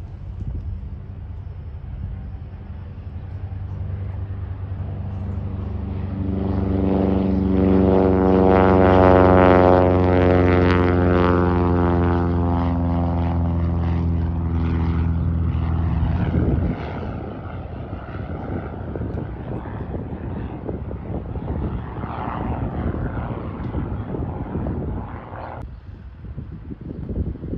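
Propeller airplane passing, its engine and propeller drone growing louder over several seconds and then cutting off suddenly about two-thirds of the way through, leaving a rushing noise.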